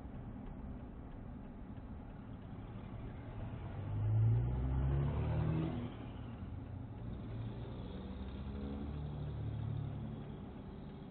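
Car engine and road noise heard from inside the cabin, with an engine revving up louder and rising in pitch about four seconds in as a vehicle accelerates, then easing back to a steady drone.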